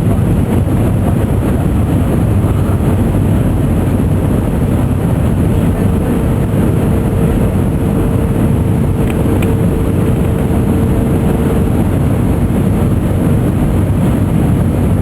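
Steady roar of an Airbus A320-232 on its landing approach, its IAE V2500 engines and the airflow heard from inside the passenger cabin. A faint steady tone comes in about six seconds in and fades some seven seconds later.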